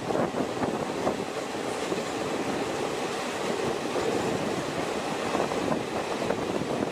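Express passenger train running along the track: a steady rumble of wheels on rails with irregular clicks and knocks from the wheels and coach.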